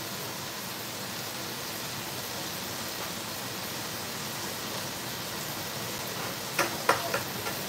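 Steady sizzling hiss of sliced sausage frying in a skillet, mixed with a pot of salted water boiling around spaghetti.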